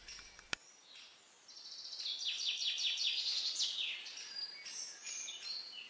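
A single click about half a second in, then songbirds singing: fast trilled phrases of high, quickly repeated notes, some running downward in pitch, starting about a second and a half in.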